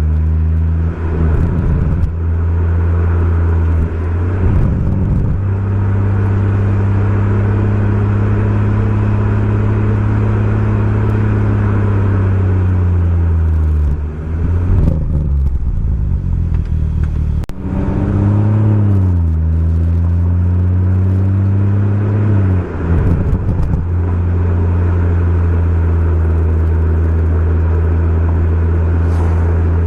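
BMW M140i's turbocharged straight-six through a Remus aftermarket exhaust, driving under load with a steady engine note broken by gear changes. About halfway through the note falls away as the car slows, then rises sharply as it pulls again, with another shift a few seconds later.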